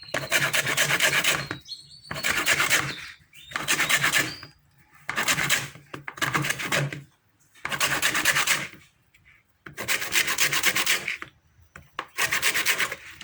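A lemon rubbed against a hand grater to take off its zest: about eight scraping strokes of around a second each, with short pauses between.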